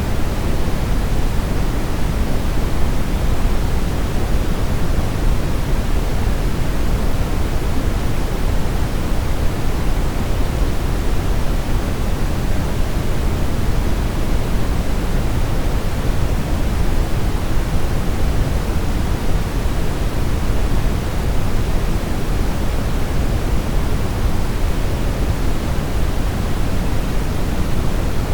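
Steady synthetic brown noise: an even, unchanging rumbling hiss weighted toward the low end.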